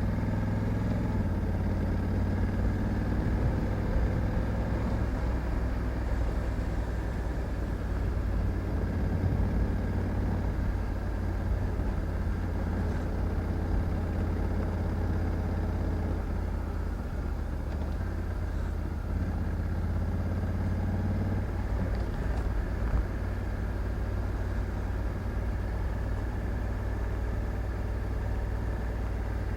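Honda Africa Twin 1100 DCT's parallel-twin engine running steadily while riding, its note shifting in pitch a few times as the revs change.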